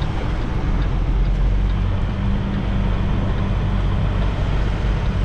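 Semi-truck diesel engine running steadily at low speed, a continuous low rumble heard from inside the cab while the rig is maneuvered in reverse.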